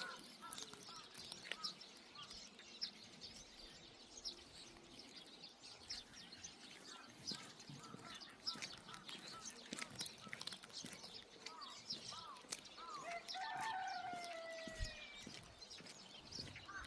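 A rooster crows once near the end, one long call that falls slightly in pitch, over faint patter of rain and small birds chirping.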